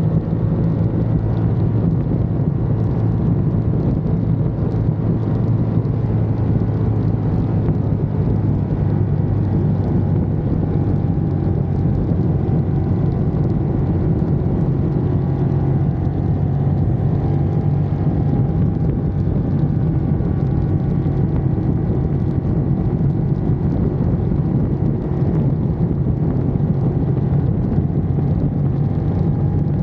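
Ducati Monster's L-twin engine running steadily on the move, its note drifting slightly up and down.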